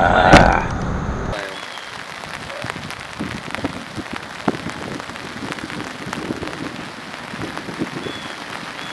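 Steady rainfall, with many individual raindrops pattering close by. Early on there is a single loud sharp knock, the loudest thing here, and near the end a few short, faint high chirps.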